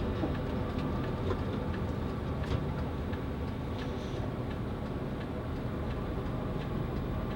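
Cabin noise of a moving tour bus: a steady low rumble of engine and road, with scattered faint ticks and rattles.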